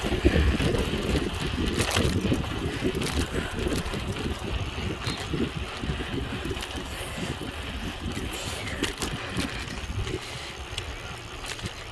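Wind buffeting the microphone of a camera carried on a moving bicycle, with a low, uneven rumble from the ride and scattered small clicks and rattles.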